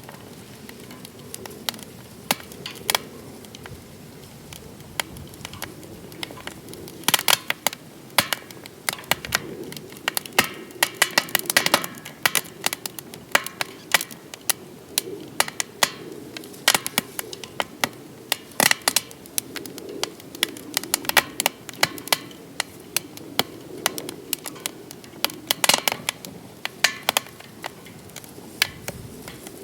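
Wood fire crackling in a DOD Mecha Moe Fire fire pit: irregular sharp pops and snaps, some in quick clusters, over a low steady rush of the flames.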